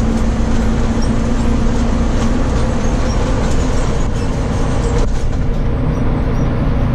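Fire truck driving, with steady engine and road noise heard from inside its cab.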